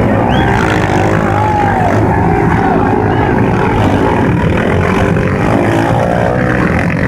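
Several Chinese-made motocross bikes' engines running and revving together, their pitches rising and falling.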